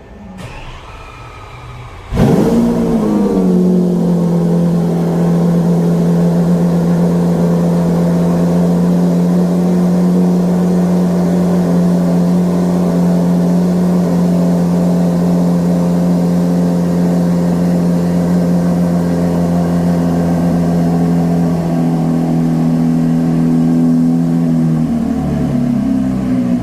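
Lamborghini Aventador SVJ's V12 engine starting about two seconds in, catching with a loud burst and a brief flare in revs, then settling into a steady idle. The idle note shifts a little near the end.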